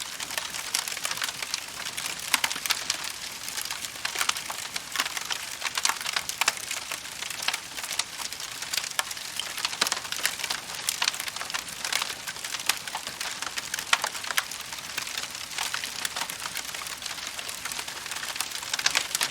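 Wood fire burning and crackling: a steady hiss with dense, irregular pops and snaps throughout.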